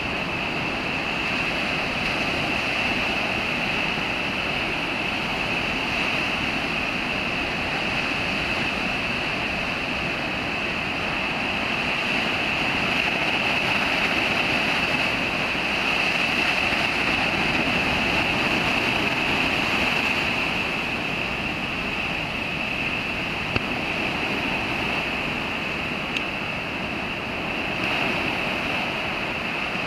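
Rough sea surf stirred up by a typhoon: a continuous, steady roar of waves breaking on the beach.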